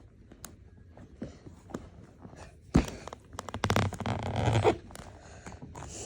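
Clothes and belongings being handled while a suitcase is packed: scattered clicks and rustling, a sharp thump a little under three seconds in, then about a second of dense, rapid rustling and clicking, zipper-like.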